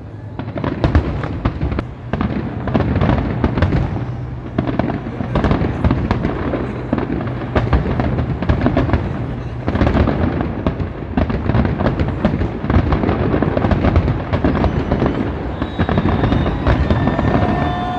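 A fireworks display: a dense, continuous run of booms and crackling bursts overlapping one another, with a steady high tone joining near the end.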